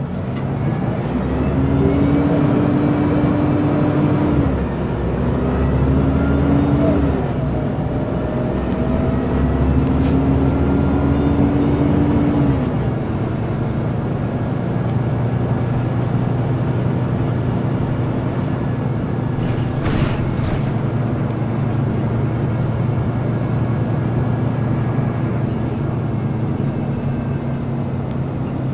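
Scania L94UB bus's diesel engine pulling away under acceleration. Its pitch rises and drops back three times as the ZF automatic gearbox shifts up, then it runs steadily at cruising speed.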